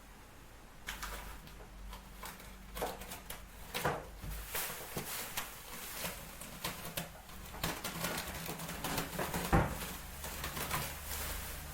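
Rubbing and scraping on a surface during renovation work, in short irregular strokes, with one sharper knock near the end.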